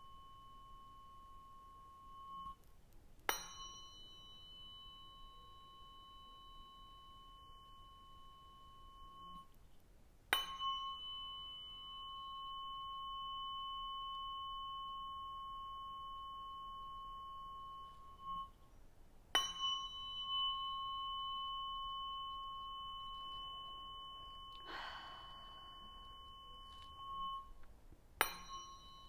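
Tuning fork struck four times, at roughly even intervals, each strike giving a sharp tap and then a clear high ring that sustains for several seconds before the next. Near the end a short soft swish passes under the ringing.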